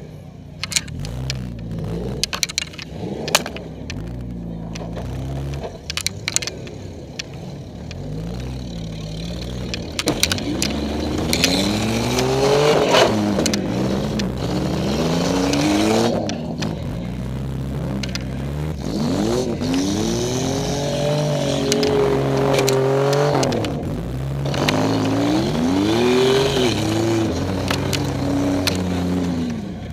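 Demolition derby car's engine heard from inside the cabin, revving up and down repeatedly as the car drives, its pitch climbing in several long rises from about a third of the way in. During the first several seconds there are many sharp knocks and rattles from the car's body.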